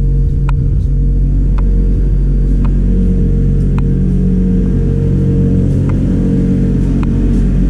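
A motor running with a loud, steady hum, and a light click repeating about once a second.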